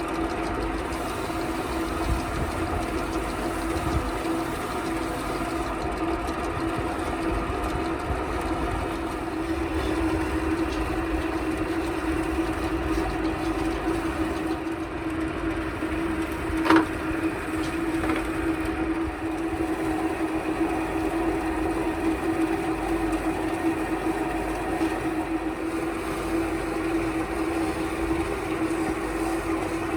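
A motor running steadily at an even pitch, with a single sharp knock about seventeen seconds in.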